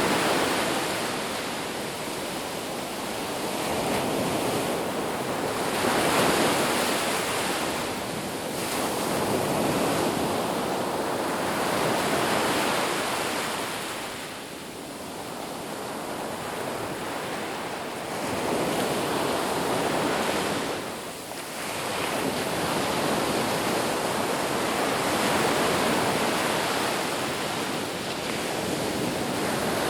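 Ocean waves breaking on a beach, a continuous rush of surf that swells and eases every few seconds, with a few deeper lulls between sets.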